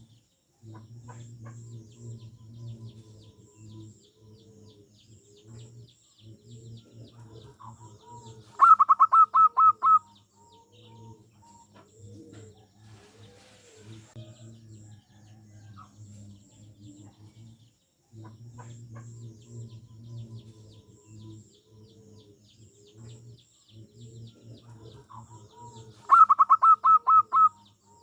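Zebra doves cooing, a steady run of soft rounded notes with faint high chirping behind. Twice, about nine seconds in and again near the end, comes a loud quick burst of about seven clipped notes.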